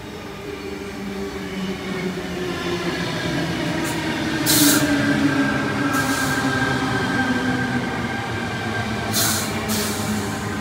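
Tangara electric multiple unit running into the platform: a rumble that grows louder as it nears, with several steady whining tones, some sinking slightly in pitch. Four short bursts of hiss sound about four and a half, six and nine and a half seconds in.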